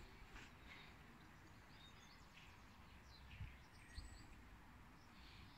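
Near silence with faint birdsong: scattered short chirps from small birds.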